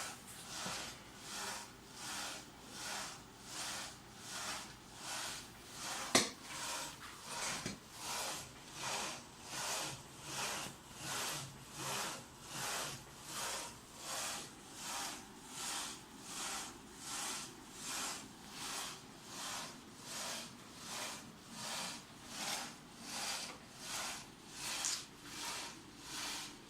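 Homemade CNC laser's y-axis drive moving back and forth on a test run: a repeating whir, one burst a little more than once a second, with a single sharp click about six seconds in.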